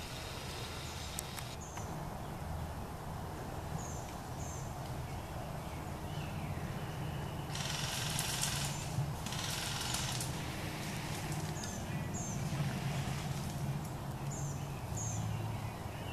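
Woodland birds giving short high chirps, mostly in pairs, every few seconds, over a steady low rumble. Two bursts of rustling hiss come about eight and ten seconds in.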